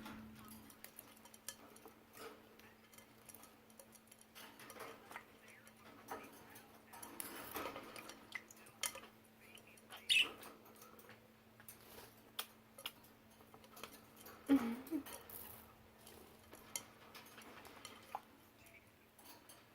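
Budgies moving about in their cage: faint, scattered light clicks and taps, with a few slightly louder ones, over a faint steady hum.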